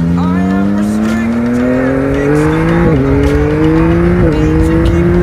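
Yamaha MT-09's inline-three engine accelerating hard, its pitch climbing steadily and dipping briefly twice, about three seconds in and again a second later, as it shifts up through the gears.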